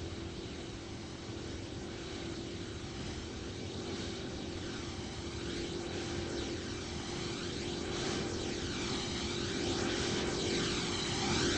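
Jet airliner on its take-off departure, its engines' roar and hum growing steadily louder as it approaches, with a sweeping, phasing hiss that strengthens in the later seconds.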